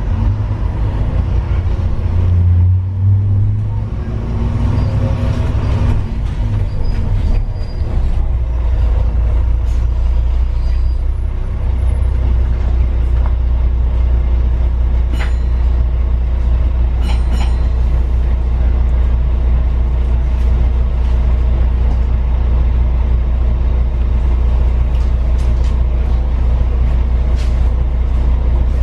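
Steady low rumble of a vehicle in motion, heard from on board. It varies for the first few seconds, then settles, with a few short clicks and squeaks partway through.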